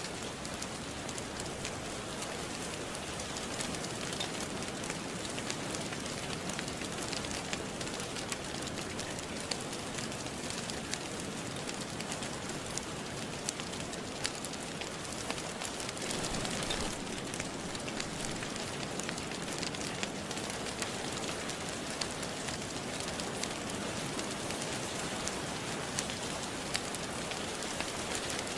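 Steady rain with a gentle crackling fireplace: an even hiss of rain, scattered with many small sharp pops and crackles.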